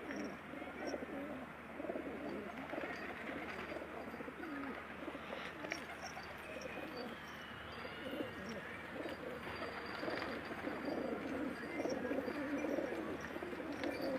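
Many pigeons cooing together in a continuous, overlapping chorus, with small birds chirping briefly and high above it.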